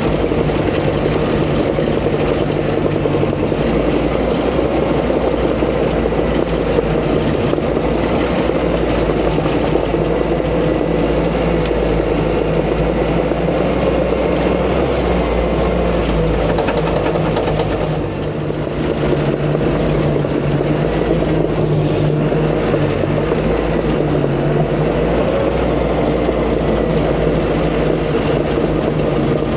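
Caterpillar D5 bulldozer's diesel engine running steadily under load while pushing dirt, with a brief dip in level a little past the middle.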